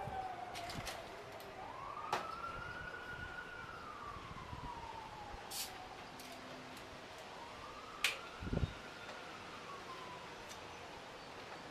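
Emergency vehicle siren wailing, its pitch slowly rising and falling in long sweeps of about six seconds, with a few sharp clicks and a low thump over it.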